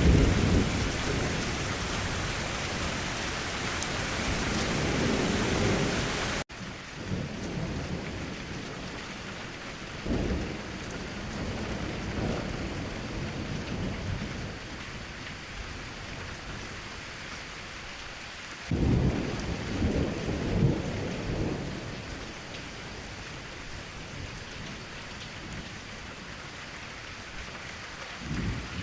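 Rain sound effect with rolling thunder. Heavy rain and loud rumbling cut off abruptly about six seconds in to a quieter, steady rain, with low rumbles of thunder swelling again around ten seconds, from about nineteen to twenty-two seconds, and near the end.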